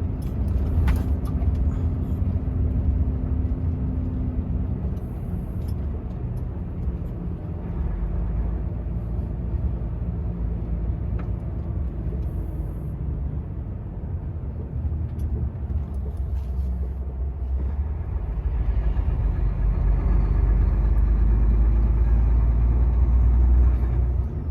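Volvo truck's diesel engine running, with road noise heard from inside the cab as a steady low rumble that grows louder about eighteen seconds in.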